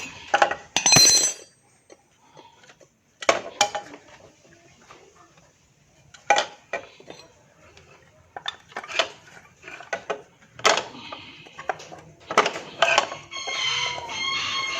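Metal hand tools and small engine parts clinking and knocking irregularly, with one ringing metallic clink about a second in, during hand repair on the magneto side of a Honda Grand motorcycle engine.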